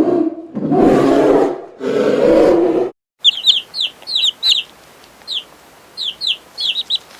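Three loud animal roars of about a second each, followed after a short gap by a run of short, high, downward-sweeping bird chirps.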